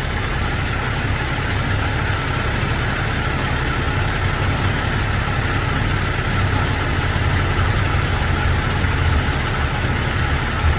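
Heavy truck engine idling steadily with a low, even drone.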